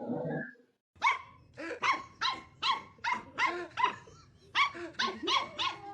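A dog barking rapidly and repeatedly, about three sharp barks a second, with a short break past the middle. A brief muffled rustling noise comes just before the barking starts.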